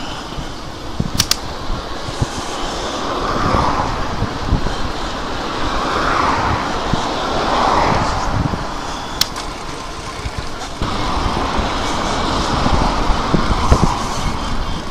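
Wind rushing over the microphone with tyre and road rumble while riding an electric bike, swelling and easing, with a few sharp clicks.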